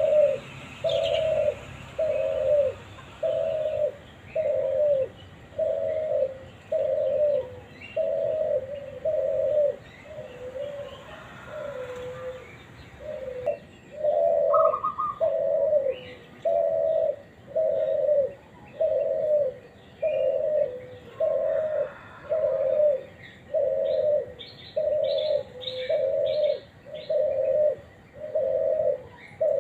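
A bird repeats a single low call note over and over, about once a second, the notes weaker for a few seconds in the middle. Short high chirps from another bird come in near the end.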